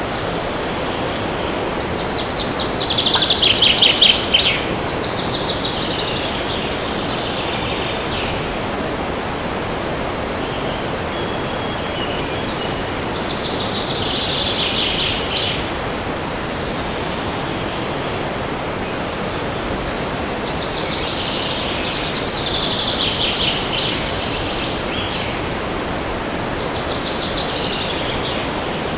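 Steady wind hiss through a forest, with songbirds singing short phrases of rapid trilled notes that come and go several times; the loudest phrase comes about three to four seconds in.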